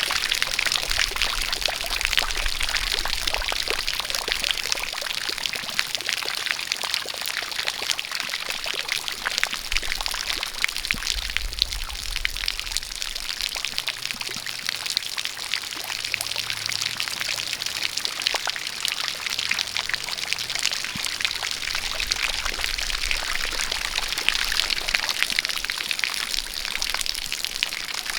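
A steady jet of water pouring, mixed with a dense, irregular patter of falling raindrops.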